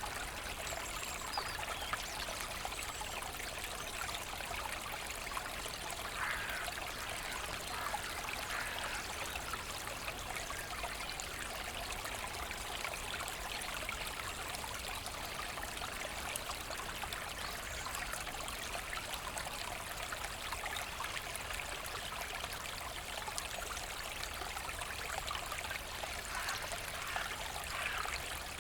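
Forest brook flowing steadily, an even trickling and splashing rush of water.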